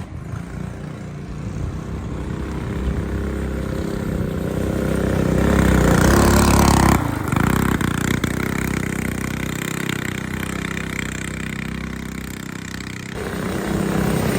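Small engine of a homemade three-wheeler revving under throttle, growing louder to a peak about six seconds in, dropping off suddenly, then running steadily before rising again near the end.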